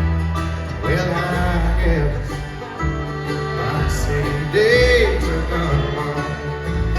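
Live bluegrass band playing an instrumental passage: picked acoustic guitar and banjo over a deep bass line, with a few sliding, bending notes near the middle.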